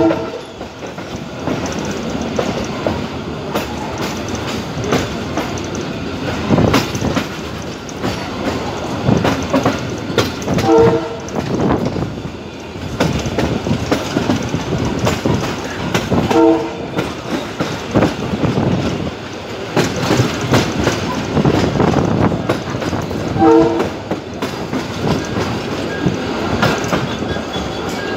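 Abu Qir suburban train running along the line, a steady loud rumble with scattered rail clicks. Its horn sounds four short blasts: one at the start, then three more spaced several seconds apart.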